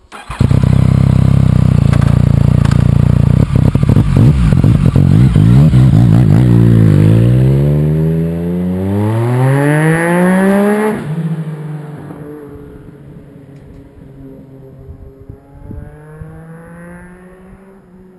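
Yamaha FZ-09 inline-three motorcycle engine through a full Arrow exhaust, passing loudly. The revs fall, then climb hard until they cut off sharply about eleven seconds in, and the bike fades into the distance as it keeps accelerating. Crackles and pops off throttle are typical of this bike: the owner puts them down to its still-fitted air injection system and the thin air at over 6000 feet.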